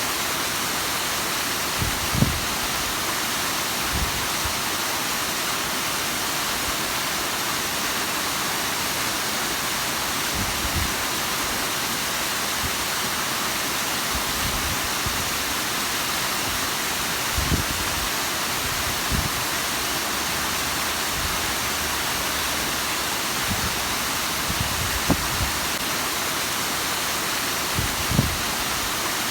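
Bigăr waterfall: a steady, even rush of falling water, with a few brief soft low thumps now and then.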